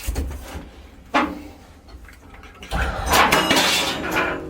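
Tools sliding and falling, landing in a loud clatter about a second and a half long, after a single sharp knock about a second in.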